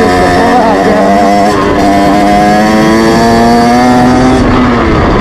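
Moped engine running under throttle while riding, its pitch climbing slowly, then dipping briefly near the end as the throttle eases before picking up again. A dense low rumble lies under it.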